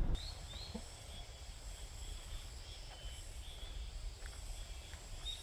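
Quiet outdoor ambience: a small animal's short, high, slightly rising chirp repeating steadily, about two a second, over a low steady rumble.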